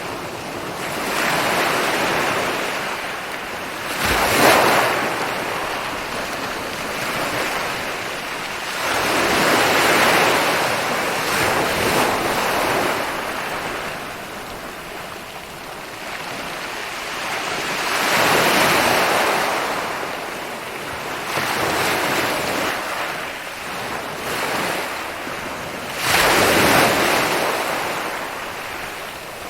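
Ocean waves rolling in and breaking on a beach, the surf swelling and ebbing every several seconds, with sharper crashes about four seconds in and again near the end.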